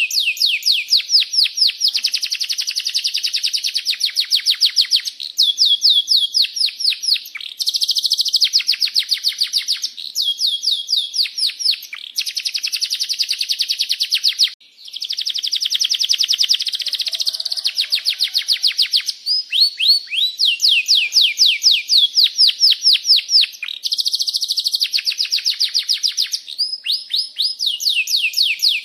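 Domestic canary singing non-stop in long rolling trills of rapid repeated chirps, the phrase changing every second or two, with one brief pause about halfway.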